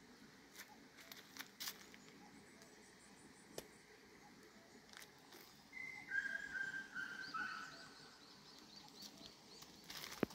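Faint birdsong: a short run of clear whistled notes about six seconds in, followed by a string of quick high chirps, over a quiet outdoor background with a few soft clicks.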